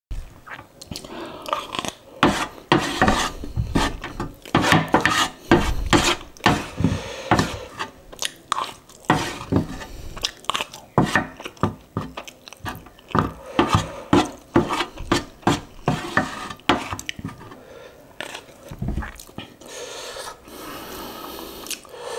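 Close-miked eating sounds: chewing and biting on spicy instant noodles in short, irregular bursts, with a wooden spoon and fork scraping and tapping on a metal tray.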